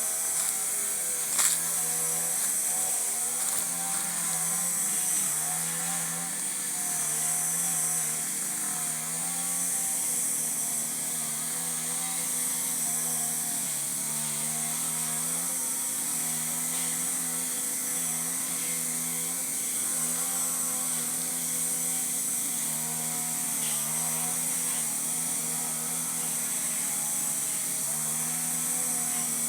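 Steady high-pitched insect chorus, with a low wavering hum underneath and a single sharp click about a second and a half in.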